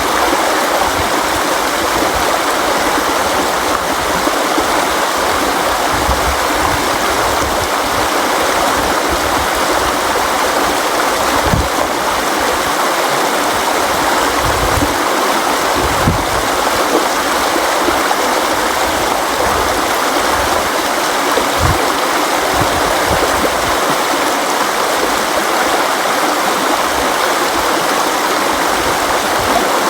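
River water flowing steadily over rocks, a continuous rushing and gurgling hiss, with occasional soft low thumps.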